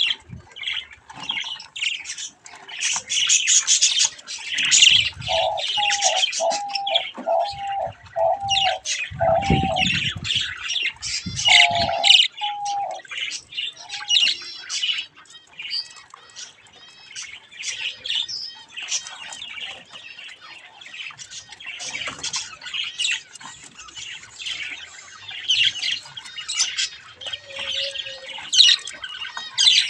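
Budgerigars chattering: a busy, continuous mix of chirps, squawks and warbling. Between about five and ten seconds in, a lower note repeats about twice a second, with a few low thumps near the middle.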